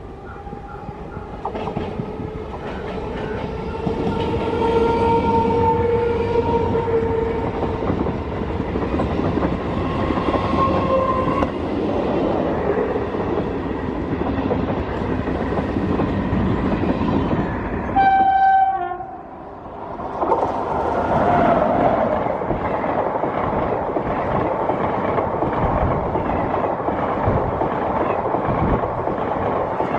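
Express train hauled by an electric locomotive, approaching with several long horn blasts over the first eighteen seconds as its rumble grows. From about twenty seconds in, the coaches rush past close by with a steady clatter of wheels over the rail joints.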